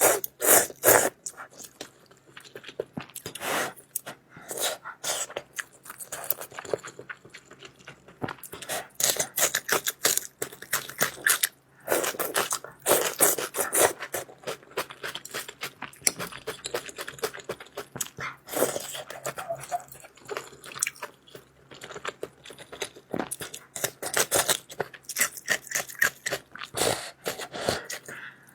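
Close-miked eating: a person chewing noodles with wet, irregular smacking and crunching sounds, in quick clusters with brief pauses.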